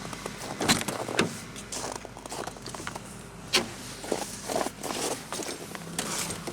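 Footsteps and a few sharp knocks and clicks as a car door is opened and someone gets into the seat of a cold car.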